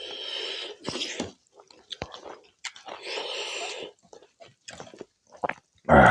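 Close-miked chewing and mouth sounds of someone eating pork curry with rice: wet smacks, clicks and breathy chewing in separate spells. A louder vocal sound comes at the very end.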